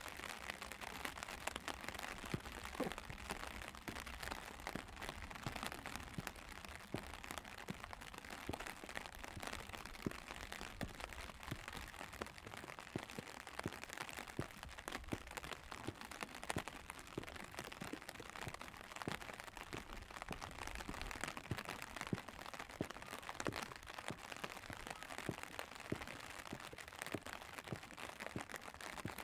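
Steady rain falling on an umbrella held close over the microphone: a dense, irregular ticking of drops without letup.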